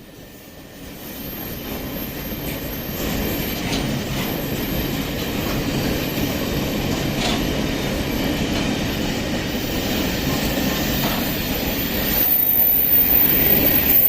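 Empty iron-ore wagons of an MRS freight train rolling past on the rails: a steady rumble of steel wheels on track that builds over the first couple of seconds and grows louder near the end, with a few faint clicks over rail joints.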